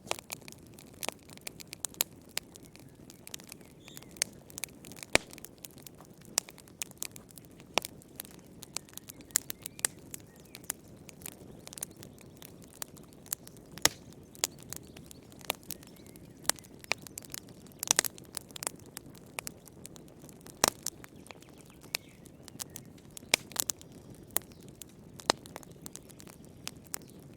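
Wood fire in a fireplace crackling, with frequent irregular sharp pops and snaps over a soft low rush of burning.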